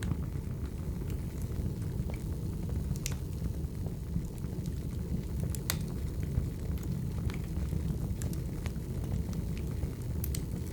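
Wood fire burning: a steady low rumble with sharp crackles and pops scattered irregularly through it.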